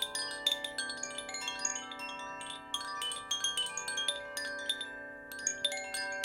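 Chimes struck in a quick, irregular flurry, several strikes a second, their bright ringing tones overlapping, with a brief lull about five seconds in. A low steady tone sounds underneath.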